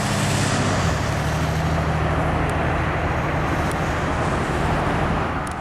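Steady engine noise over a low hum, which shifts pitch about a second in and eases off near the end.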